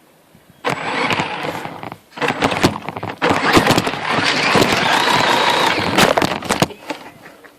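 Electric motor and gearbox of a Tamiya CC01 radio-controlled truck whining in two spurts of throttle, with rapid clattering and knocking as the truck scrabbles over the obstacles. It stops about a second before the end.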